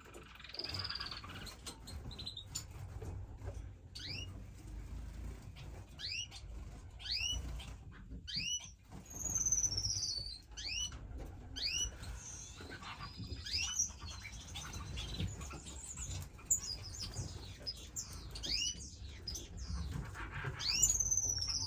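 A room of finches giving many short chirps and calls, scattered and overlapping, over a faint low hum.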